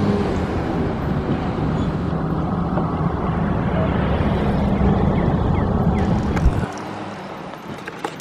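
Steady low rumble of a freight train's cars rolling away on the rails as the rear of the train recedes; it drops off suddenly near the end, leaving a few faint chirps.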